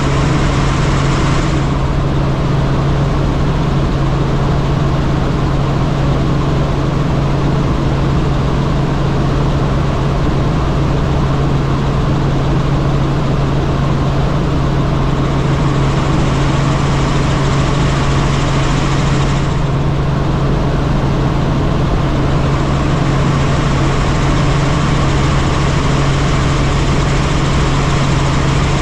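Helicopter in flight, a steady loud drone of rotor and engine with a strong low hum.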